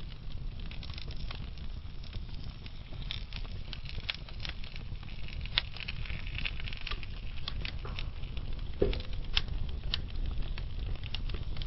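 Burning logs in a wood fire crackling, with irregular sharp pops over a steady low rumble and a louder pop about nine seconds in.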